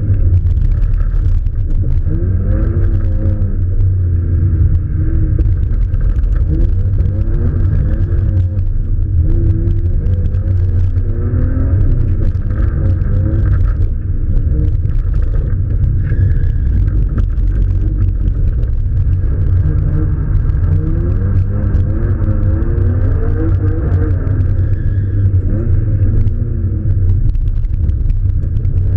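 Car engine revving up and falling back again and again through acceleration and shifts, over a heavy low rumble. It sounds muffled, recorded from a GoPro in its sealed case.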